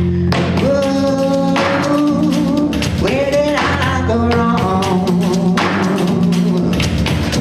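Live band playing: a steady bass line and drum kit under a melody line that slides and wavers in pitch.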